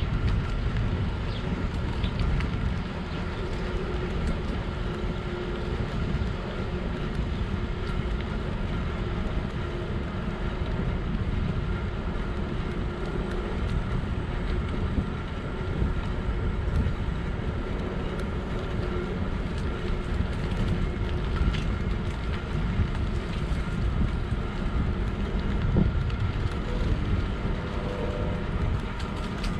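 Steady wind rush and tyre rumble from riding a Pedego City Commuter electric bike, with faint steady tones above the rumble.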